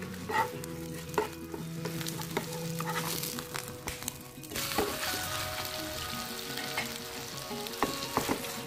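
Oil sizzling in a pan as gourd-and-shrimp batter fritters fry, with scattered sharp clicks and taps. The sizzle grows louder about halfway through.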